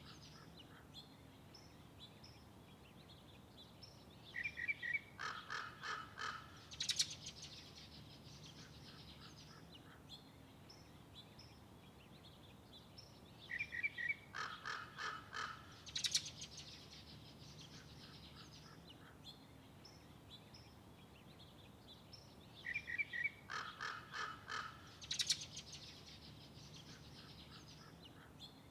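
A songbird singing the same song three times, about nine seconds apart: each song is a quick string of short notes ending in one sharp, higher note. A faint steady low hum lies underneath.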